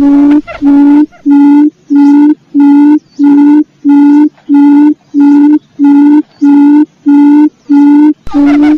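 Quail lure call: a low, steady-pitched hooting note repeated about twice a second, each note about a third of a second long. In the first second a second, higher, wavering call overlaps it.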